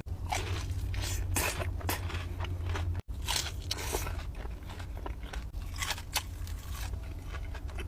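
Close-up crunching and chewing of fried chicken fingers: crisp bites with many small crackles throughout, the sound dropping out for an instant about three seconds in.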